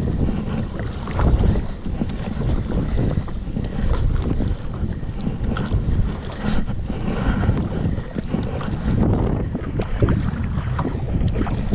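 Wind buffeting the camera microphone in gusts while kayaking, with scattered splashes of water against the kayak and paddle.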